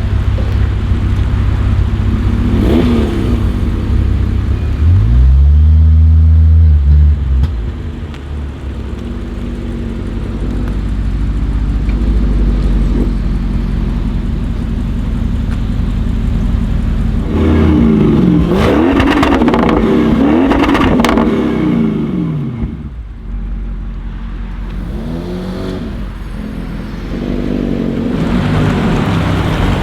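Audi RS6 C7 Performance's twin-turbo V8 through an Akrapovic exhaust, revving and accelerating hard several times. Loud rises and falls in pitch come about five seconds in, in a cluster in the second half, and again near the end, with steadier engine sound between them.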